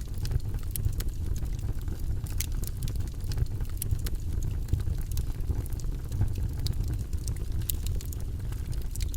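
Campfire crackling: scattered sharp pops and snaps, several a second, over a steady low rumble of burning flames.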